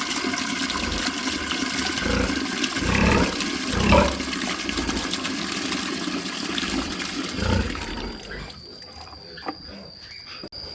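Water rushing or splashing in a steady, loud wash that fades out near the end, with a few low thuds in it.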